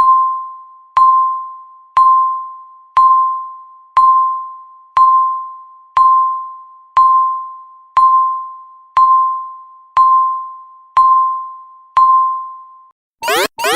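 Countdown timer ticking down its last seconds with one electronic ding a second, each a single bell-like tone that fades before the next. Just before the end it hits zero, and a loud alarm of rapid, repeating rising electronic sweeps breaks in.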